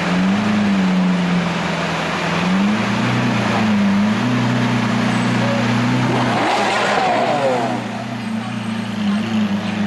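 Lamborghini Aventador V12 engine running at a high idle, its pitch rising and falling gently. A short, sharp blip of revs about two-thirds of the way through.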